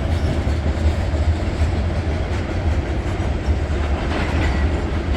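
Diesel freight train running past, a steady low rumble from the locomotives and rolling cars on the rails.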